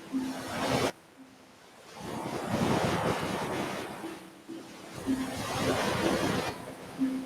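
Ocean waves breaking and washing up a beach: the surf swells and fades in surges, one wash building from about two seconds in and another breaking off abruptly near the end.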